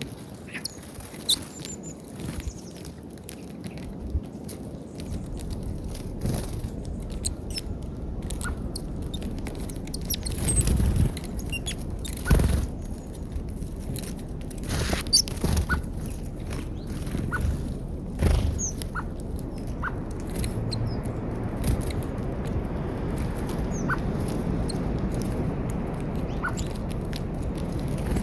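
Birds feeding on peanuts at a feeder: irregular pecking taps and clicks, some sharp and loud, over a steady low background hiss.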